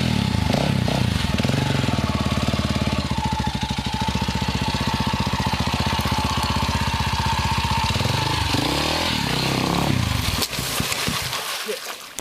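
Dirt bike engine revving hard and held at steady high revs, then the revs wander up and down near the end before the engine drops off and goes quiet.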